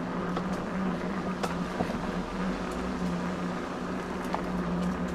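E-bike on the move: a steady motor hum under an even rush of tyre and wind noise, with a few faint clicks.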